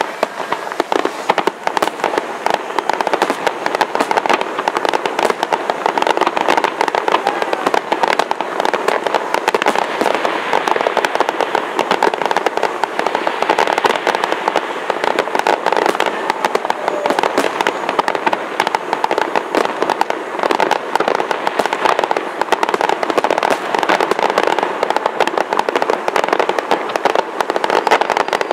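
Aerial fireworks display: many shells bursting in quick succession without a break, a continuous run of bangs and crackle.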